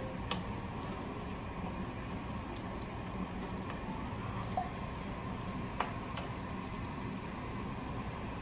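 A spoon stirring thick yuca cream into chicken in a pot: soft squishing with a few light, separate clicks of the spoon against the pot, over a steady background noise.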